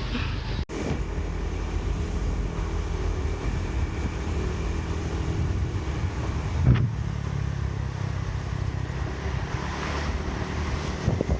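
A road vehicle on the move: steady engine and road noise, with a brief dropout near the start and a single knock about seven seconds in.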